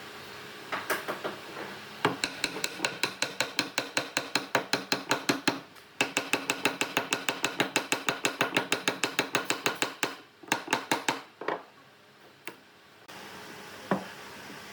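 Rapid, even series of sharp tapping strikes, about eight a second, with a short break in the middle and a few single knocks near the end.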